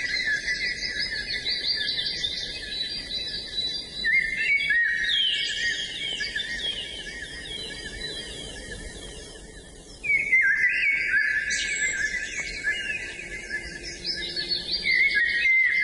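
Songbirds singing, with dense, overlapping rapid trills and chirps. The song fades somewhat and then starts loud again about two-thirds of the way in.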